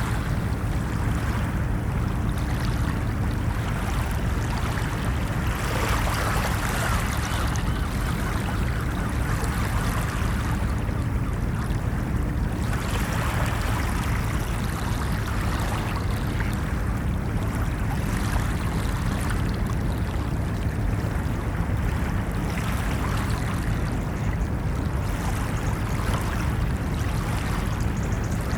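Ocean surf: waves washing in continuously over a steady low rumble, the wash swelling and fading every five seconds or so.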